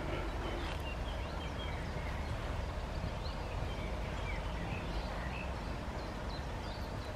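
Outdoor ambience: a steady low rumble with scattered short, high bird chirps throughout.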